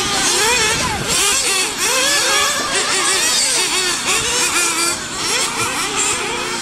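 Several RC race buggies and truggies racing together, their small engines revving up and down quickly and overlapping in a constant high-pitched buzz.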